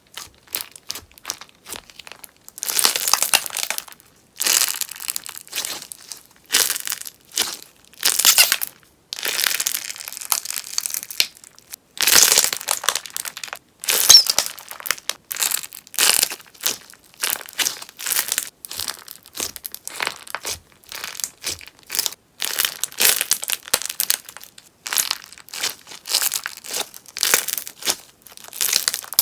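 Sponge slime being worked by hand, crackling and popping in repeated bursts of about a second each with short pauses between.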